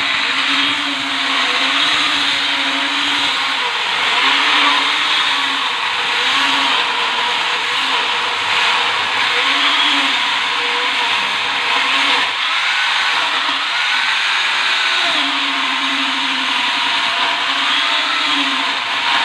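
Battery-powered mini chainsaw running continuously, its motor hum wavering and briefly dropping out at times over a steady whirring of the chain.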